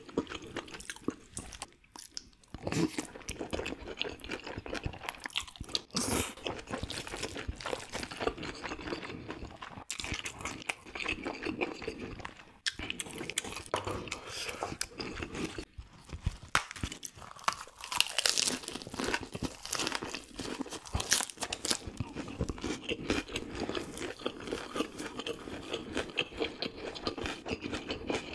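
Close-miked mouth sounds of a person eating spicy cold noodles: continuous chewing with many small, irregular wet clicks and bites.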